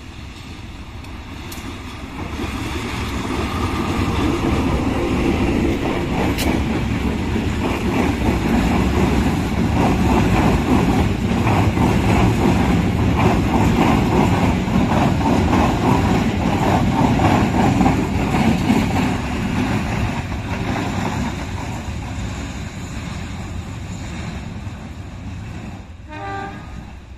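CC 201 diesel-electric locomotive passing with a train of flat wagons loaded with spare bogies: the engine noise swells as it nears, then the wagons' wheels clatter over the rail joints, fading toward the end.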